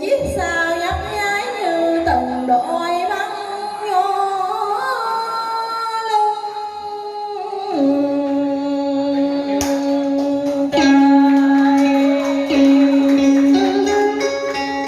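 Vietnamese ca cổ singing: a voice drawing out a long, wordless ornamented line, gliding between notes, then holding one long steady note through the second half, with instrumental accompaniment.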